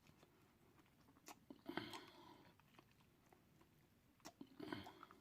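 Faint chewing of deep-fried turkey tail, with soft wet smacks and a few light crunchy bites in two short spells.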